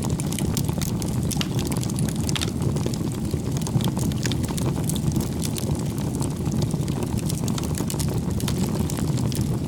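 Campfire burning with a steady low rumble and many small sharp crackles and pops throughout.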